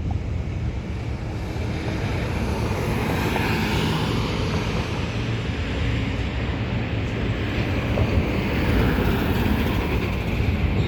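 Fire engine driving by under power: a steady low engine rumble with road and wind hiss, growing a little louder toward the end.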